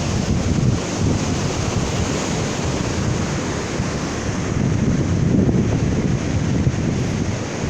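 Sea surf washing onto a beach, mixed with wind buffeting the microphone in a steady low rumble.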